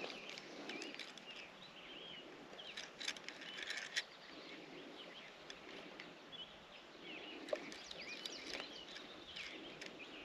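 Faint birds chirping, many short calls scattered throughout, with a few sharp clicks among them.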